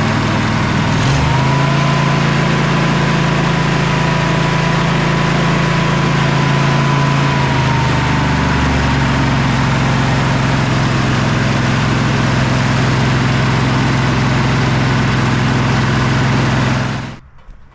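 Twin-cylinder engine of a Sabre by John Deere lawn tractor running near idle, now firing on both cylinders after a clogged carburetor port was cleaned. Its speed steps to a new steady pitch about a second in and again around eight seconds as the idle is adjusted, and the replacement carburetor does not quite bring it all the way down to idle. It cuts off near the end.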